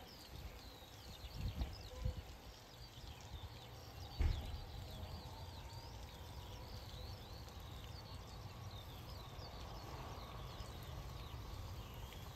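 Small birds chirping and singing over a low outdoor rumble, with a single sharp knock about four seconds in.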